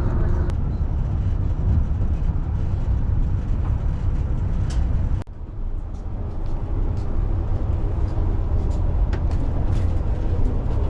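Steady low rumble and wheel-on-rail clatter inside the cabin of the Yufuin-no-mori 3 train, a KiHa 72 diesel railcar, on the move, with light clicks and a brief dip about five seconds in.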